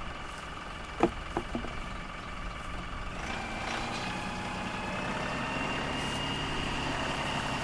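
LS XR3135 compact tractor's diesel engine running steadily while it digs, with a couple of sharp clanks about a second in. From about three seconds in a higher whine comes in, rises slightly and holds as the machine works a little harder.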